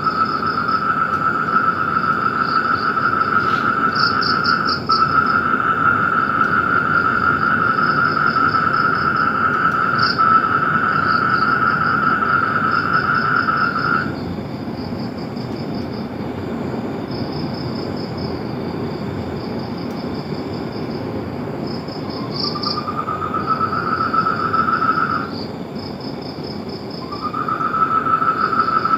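Chorus of calling animals: a loud continuous buzzing trill that stops about halfway through, returns, breaks off briefly and comes back near the end. Over it, repeated short high chirping trills keep going, above a steady low rushing background.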